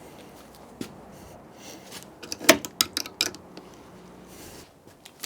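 Scattered sharp clicks and light knocks of tools and hardware being handled, with the sharpest cluster about two and a half seconds in.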